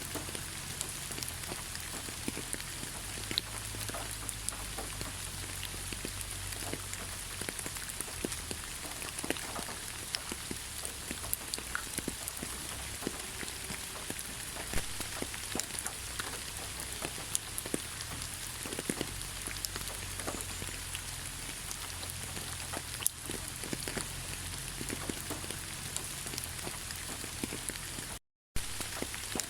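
Steady rain falling, an even hiss with many individual drops ticking and pattering at random. It cuts out to silence for a split second near the end.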